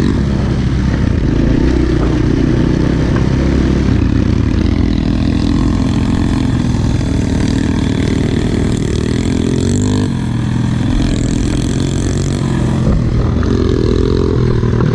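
Small single-cylinder pit bike engine running under riding load, its revs rising and falling as the throttle changes, with a brief drop about ten seconds in.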